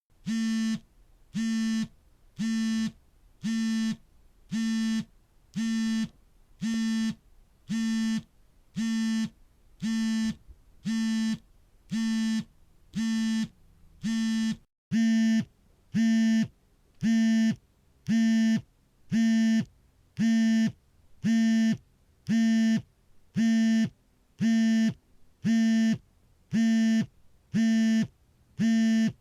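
Smartphone vibrating for an incoming call: the vibration motor buzzes in a steady, even pattern of half-second pulses, about three every two seconds.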